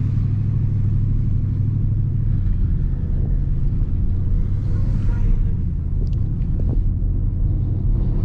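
Dodge Scat Pack's 6.4-litre Hemi V8 running at a steady, low pitch while driving, heard from inside the cabin as a low rumble, with road noise from the tyres on a snowy street. A few faint ticks sound near the end.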